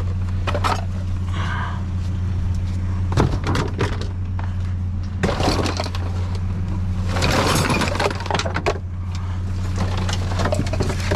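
Junk knocking and clattering inside a dumpster as items are shifted and tumble, in irregular bursts with a busier stretch in the middle, over a steady low hum.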